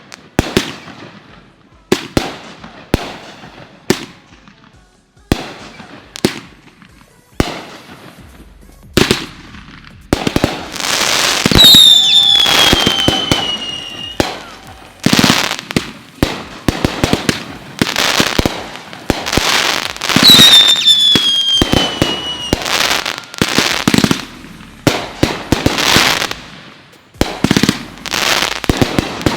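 Consumer fireworks (cakes and mortars) firing and bursting in a rapid series of sharp bangs, which come thicker after about ten seconds. Twice, a whistling firework shrieks and slides down in pitch.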